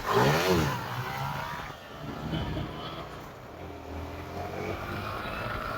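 Motorcycle engine revving up and dropping back within the first second, then running steadily.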